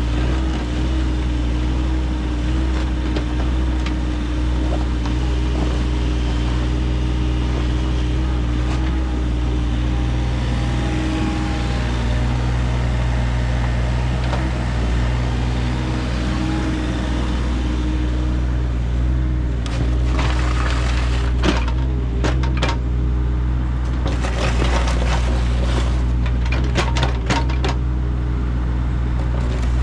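A machine's engine running steadily at a low hum, with a series of sharp cracking and clattering knocks in the last third, typical of material being broken up and dug out.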